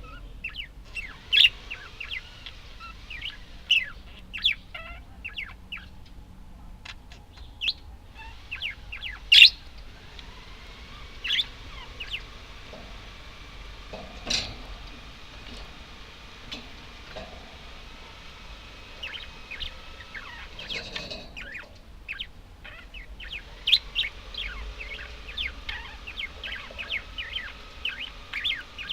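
Budgerigars chirping: many short, sharp chirps with softer warbling in between, and a quick run of chirps near the end.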